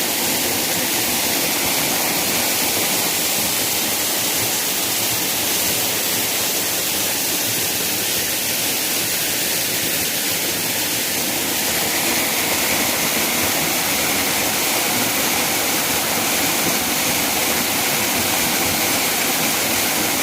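A waterfall: water pouring and splashing in a loud, steady rush with no breaks. About halfway through, the rush turns a little hissier.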